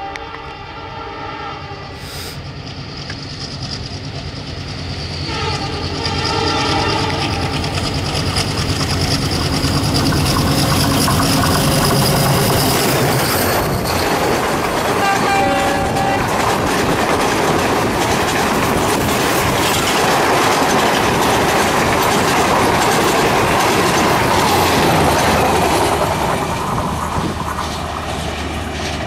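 Indian Railways diesel locomotive sounding its horn twice as it comes out of a tunnel, once at the start and again about six seconds in. Its engine grows louder as it approaches. The passenger coaches then rumble and clatter past at speed, and the sound eases off near the end.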